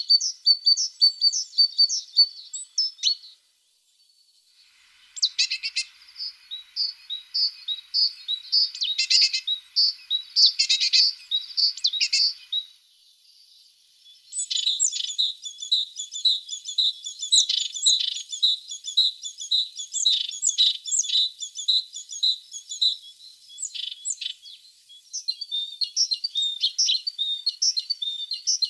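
A tit singing: long runs of rapid, high chirping notes, broken by short pauses about four and thirteen seconds in.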